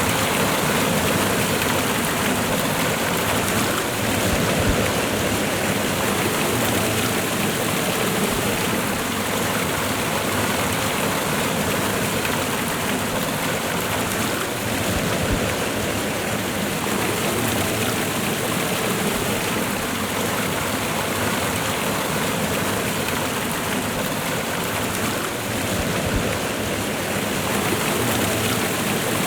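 Waterfall and river water rushing steadily: a constant dense wash of water noise with no breaks.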